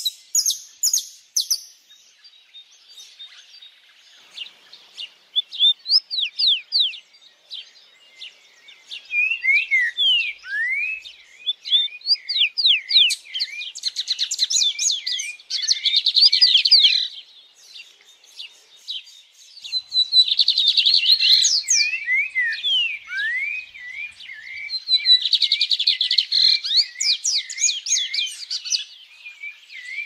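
Birds singing: phrases of rapid chirps and quick sweeping whistles, several seconds long, with short pauses between them.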